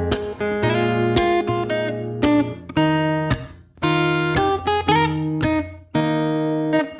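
Instrumental guitar music: a run of plucked notes, some of them bent in pitch.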